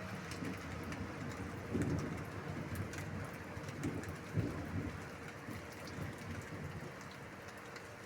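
Steady rain falling, with a few short low rumbles about two and four and a half seconds in.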